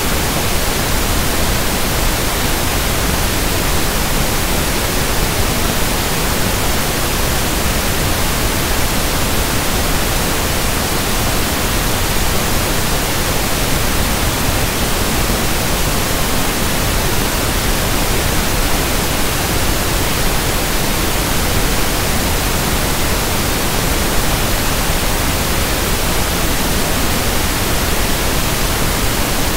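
Synthetic pink noise (1/f noise): a steady, unchanging hiss with no pattern or events.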